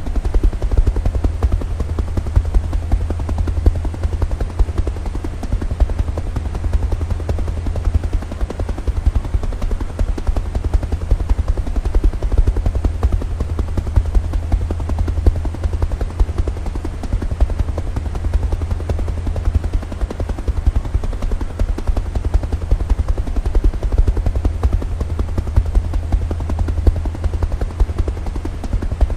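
Helicopter running steadily: a fast, even rotor beat, heavy in the bass, with no pause.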